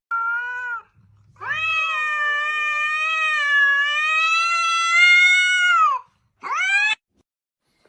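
Cat meowing: a short meow, then one long, drawn-out yowl lasting about four and a half seconds, then a short rising meow.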